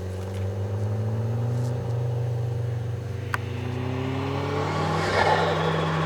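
Nissan Pulsar ET's turbocharged four-cylinder engine accelerating, its pitch climbing steadily through two pulls. About five seconds in, as the revs drop, there is a short rush of turbo flutter from the blow-off side.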